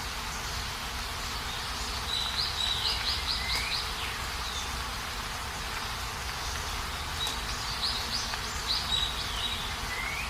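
Steady rain falling, with a bird singing twice over it: each phrase is a quick trill of high notes ending in a short rising slur.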